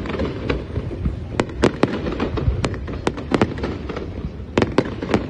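Fireworks display: an irregular string of sharp bangs and crackles, some in quick pairs, over a steady low rumble of further distant bursts.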